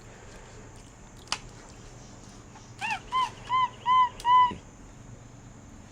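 A pet monkey giving five short squeaky calls in quick succession, each rising and falling in pitch, after a single sharp click.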